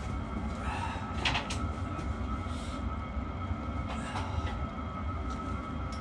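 A steady mechanical hum with a constant whine, and a few short metallic scrapes or clinks about a second in and again around four seconds.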